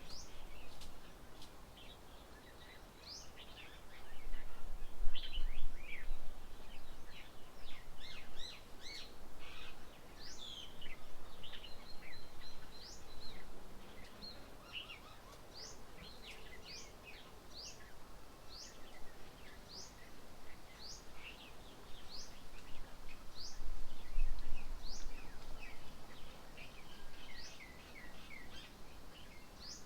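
Birds chirping and calling around a garden bird table: many short, quick chirps, with one bird repeating a short rising note about once a second for a stretch in the middle. Two spells of low rumble rise under the calls.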